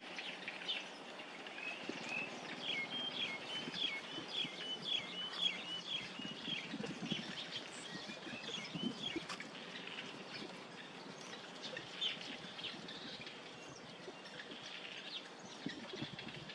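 Small birds calling and singing: a quick run of repeated, evenly spaced chirping notes for several seconds early on, then scattered single chirps, over a steady outdoor hiss.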